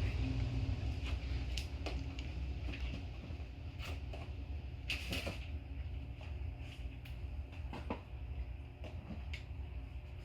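A low rumble that slowly fades away, with scattered light clicks and knocks, the loudest about five seconds in.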